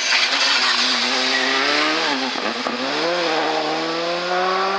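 Rally car engine running at high revs. Its pitch drops and wavers about two seconds in as the driver lifts off, then climbs steadily as the car accelerates again.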